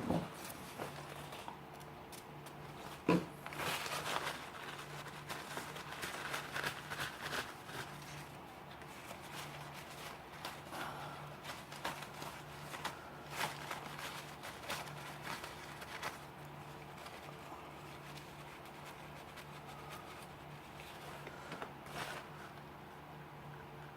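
Scattered small clicks and rattles of a Leatherman Wingman multi-tool's metal parts being handled and taken apart, with one sharper click about three seconds in, over a steady low hum.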